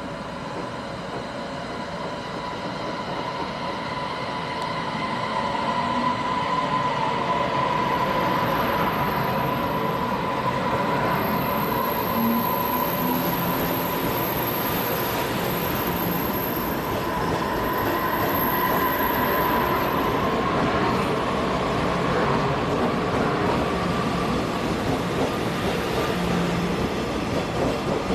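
A train running on the tracks at a station. It grows louder over the first six seconds, then holds steady, with a steady high whine running through it.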